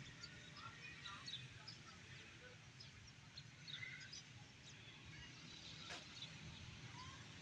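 Near silence: a faint low hum with scattered faint short chirps, like distant birds, and one faint click.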